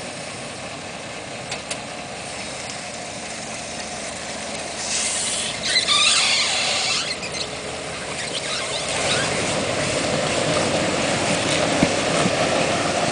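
Car driving slowly on a wrecked wheel whose tire is coming off, the bare rim scraping and squealing against the ground, with a harsh burst of scraping about five to seven seconds in. The sound is the sign of a sideswiped wheel with a twisted axle, running on the rim.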